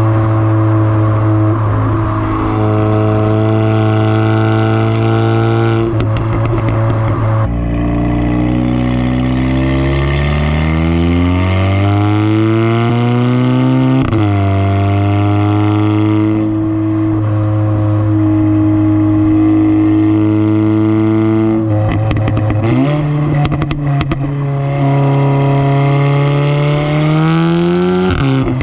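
Audi S3's turbocharged four-cylinder engine and exhaust, fitted with a resonator delete and CTS downpipe, pulling through the gears. The note holds steady, climbs in pitch under acceleration, drops sharply at a gear change about halfway through, cruises steadily, then climbs again and drops at another shift near the end.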